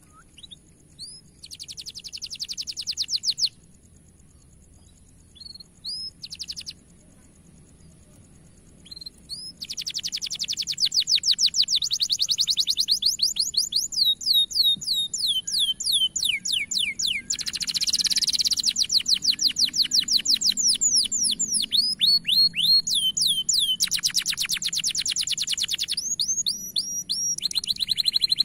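Domestic canary singing a loud, long song of rapid trills and fast-repeated whistled notes. It sings a short burst, pauses for several seconds, and from about ten seconds in sings without a break.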